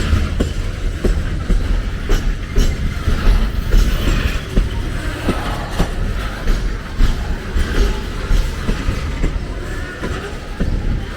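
A train rolling past with a steady low rumble, its wheels clacking over rail joints about once or twice a second.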